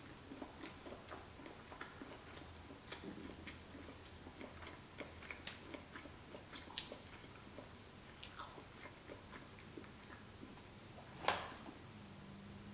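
Faint chewing of cooked shrimp, with many small wet mouth clicks and smacks. A single louder tap comes about eleven seconds in.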